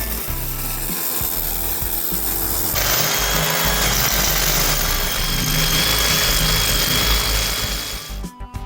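Power tools running on the workpiece with a steady abrasive noise. About three seconds in it cuts to a harsher tool with a steady high whine. Near the end it gives way to plucked-string background music.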